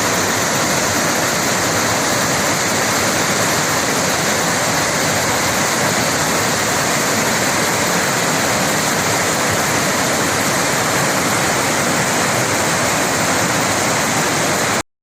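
Steady rush of water from Tails Creek and its waterfall, even and unbroken, cutting off suddenly near the end.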